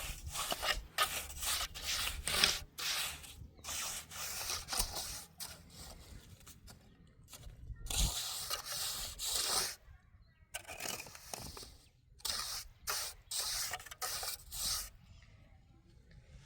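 Repeated rough scraping or rubbing strokes coming in irregular runs, with short pauses between them.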